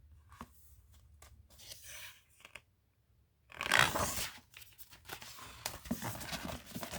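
Pages of a picture book being handled and turned: soft paper rustling, then a louder swish of paper about halfway through, followed by more rustling.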